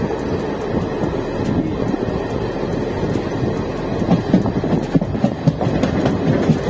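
Moving passenger train heard from its coach: a steady rumble of wheels on rails, with a run of sharp clacks from about four to six seconds in as the wheels cross rail joints and points.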